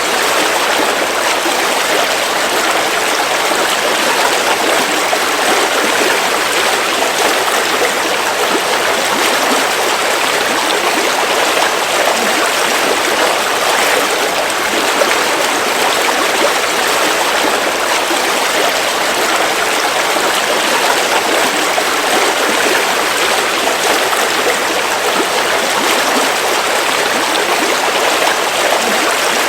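River water flowing steadily, an even rushing and babbling with no breaks.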